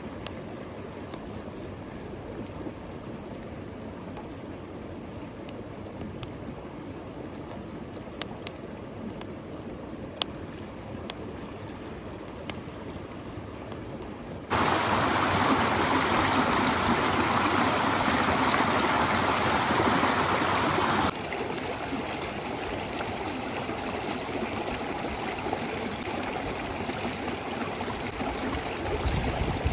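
River water flowing in a steady rush, changing abruptly in loudness as the shots change. It is softer with a few sharp clicks in the first half, much louder from about halfway in, then somewhat quieter for the last third.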